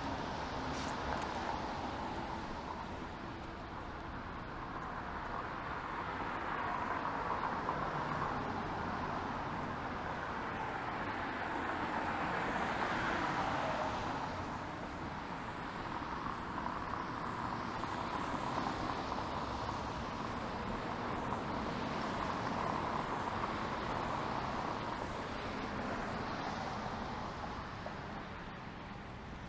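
City street traffic: cars passing one after another on wet pavement, tyres hissing, the sound swelling and fading as each goes by.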